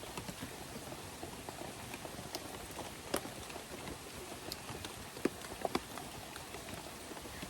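Steady rain falling, with scattered sharp drips and ticks, a few louder ones a little after three seconds and around five to six seconds.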